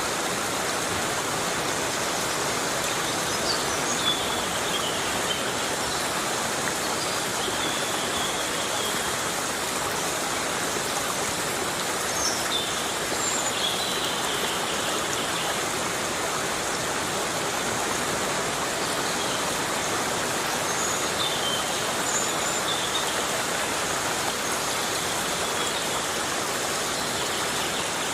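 Heavy rain falling steadily in a tropical rainforest, an even hiss of drops on the foliage. A few faint high chirps come through now and then.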